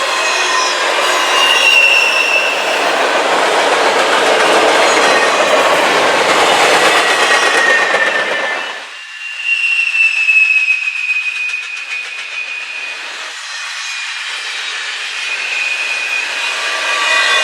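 Train cars rolling past on the rails, with high wheel squeal whining over the rushing noise of the wheels. About nine seconds in, the low rumble drops away abruptly, and the squeal carries on over a quieter rolling sound.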